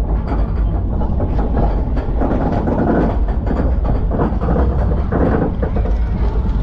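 Arrow Dynamics steel roller coaster train running along its track at speed: a steady heavy rumble with rapid clattering of wheels on the rails, and wind rushing over the microphone.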